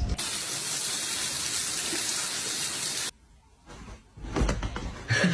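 Water running steadily with a full rushing hiss that cuts off abruptly about three seconds in. A few soft knocks follow.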